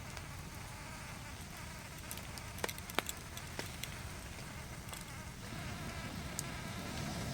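Night rainforest ambience: insects buzzing steadily over a low rumble of rain, with a few sharp ticks about three seconds in.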